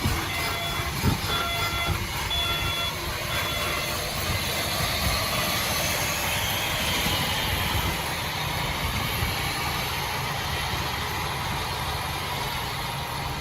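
Heavy earthmoving machinery running with a steady rumble, and a reversing alarm beeping in regular pulses that stop about three or four seconds in.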